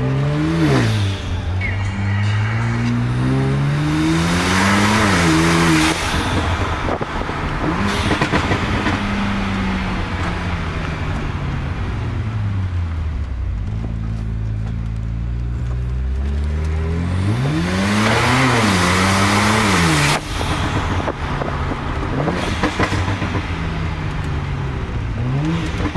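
Car engine revving hard several times: the pitch climbs over a few seconds and drops sharply, twice in long pulls, then in a few short blips near the end.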